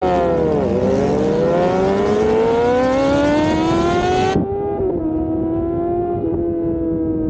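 Sport motorcycle engine accelerating, its pitch climbing steadily for about three and a half seconds after a short dip. About four seconds in the sound cuts abruptly to a steadier engine note that slowly falls.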